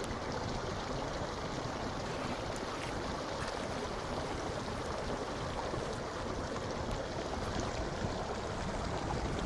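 A fire of dried dung cakes, started with petrol, burning with a steady rushing noise and a few faint crackles.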